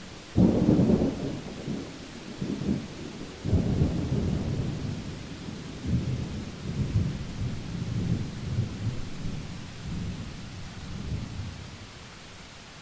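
A thunderclap breaks suddenly about half a second in and rolls on in several surges of low rumble, fading out over roughly ten seconds. Steady rain hiss lies under it throughout.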